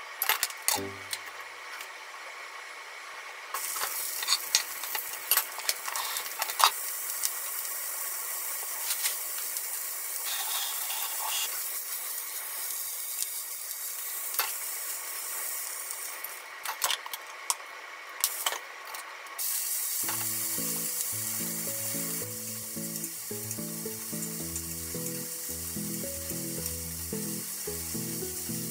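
Food sizzling as it fries in a small rectangular tamagoyaki pan, first sausages and then sliced red peppers, with sharp clicks of chopsticks turning them against the pan. The sizzle eases off briefly a little past halfway, and background music comes in about two-thirds of the way through.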